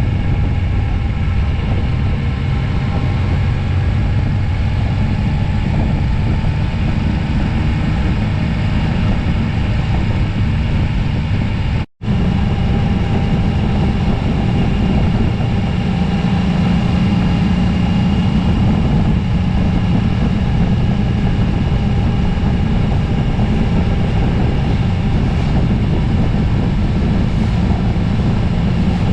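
Steady drone of a motorcycle riding at speed: engine and wind noise on a bike-mounted action camera. The sound cuts out for an instant about twelve seconds in, then carries on in a slightly higher pitch.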